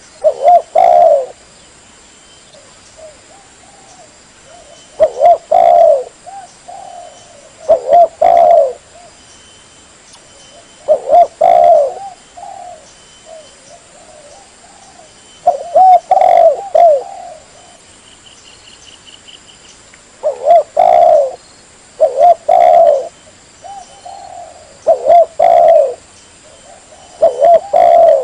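Spotted dove cooing: short phrases of a few low, rolling coos, repeated every few seconds.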